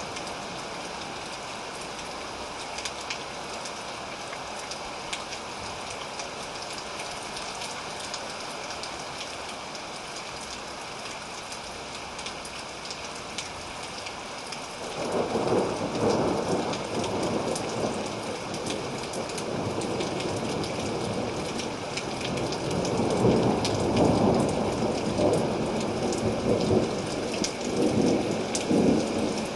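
Steady rain with scattered drops ticking throughout. About halfway through, a rolling rumble of thunder sets in and swells, loudest near the end.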